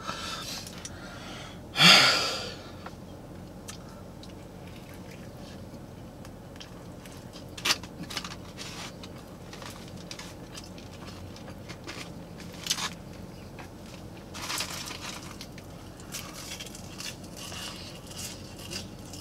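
Close-up chewing and eating of a cheeseburger and fries, with small wet clicks and crackles throughout. A louder burst comes about two seconds in, and there are a few sharper clicks later.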